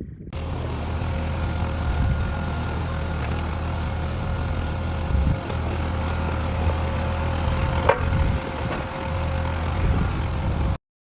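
A tractor engine running steadily, with a single sharp metallic knock about eight seconds in. The sound cuts off abruptly near the end.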